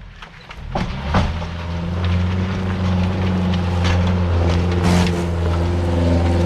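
4x4 off-road vehicle's engine working hard at steady revs while it climbs a washed-out section of trail, coming up loud about a second in. A few sharp knocks sound over it.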